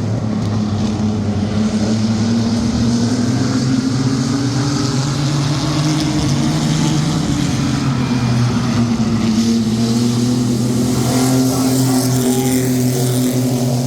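Sport trucks' engines running at racing speed around the oval track in a steady drone, with pitch rising and falling gently as they work through the corners.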